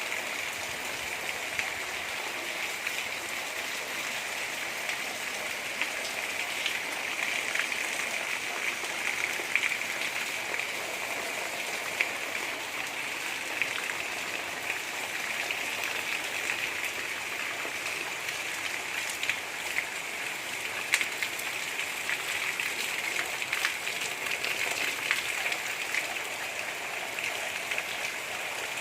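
Steady gentle rain falling, a continuous patter with scattered sharper drips of single drops.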